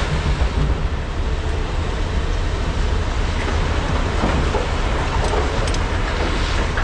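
Large hydraulic excavators' diesel engines running steadily under load while loading trucks, a dense mechanical noise with much of its weight low-pitched.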